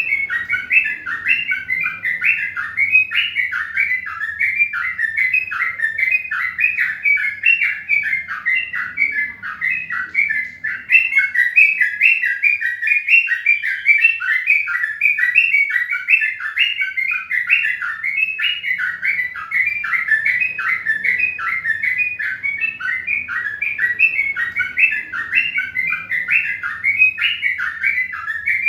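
A bird chirping without a break, about three short chirps a second at a steady pitch, over a faint low hum.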